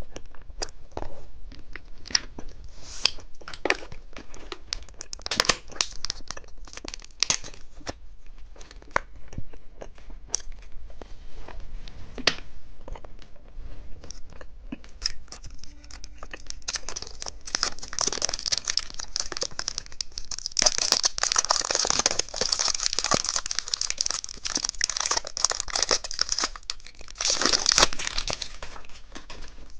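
Plastic candy packaging being torn open and crinkled by hand: scattered sharp crackles at first, then a denser, louder stretch of continuous crinkling in the second half.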